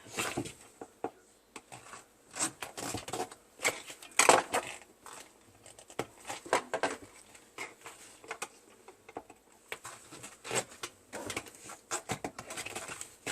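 White plastic cover being pushed and worked back onto the drain pump impeller housing in the sump of a Bosch dishwasher: irregular plastic clicks, knocks and scrapes, the loudest about four seconds in, as it is pressed to snap into place.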